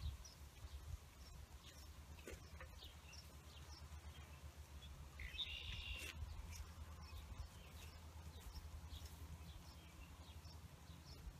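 Quiet rural outdoor ambience: faint scattered bird chirps over a low steady rumble, with one slightly louder bird call about five seconds in.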